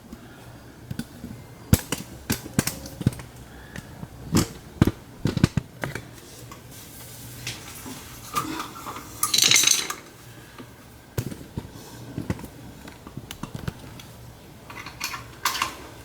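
Scattered metal clinks and knocks of tools and parts being handled on a washing machine under repair, with a short scraping rush about halfway through.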